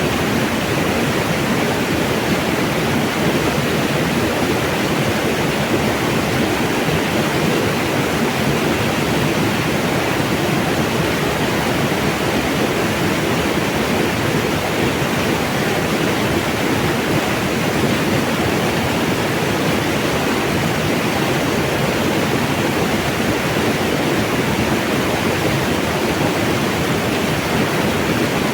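Mountain water running, a steady unbroken splashing.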